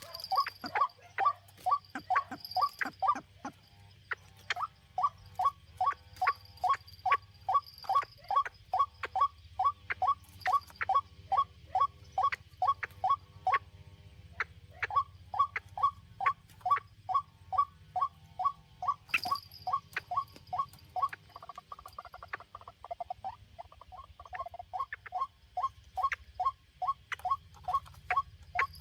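White-breasted waterhen calling: a long, rhythmic series of short, clipped calls, about three a second, with a single sharp click about two-thirds of the way through.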